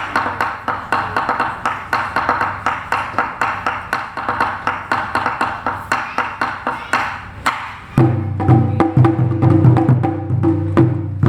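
Taiko ensemble starting a piece: a quick, even beat of sharp wooden clicks, about four a second. About eight seconds in, the big drums come in with deep booming strokes, and the playing grows louder.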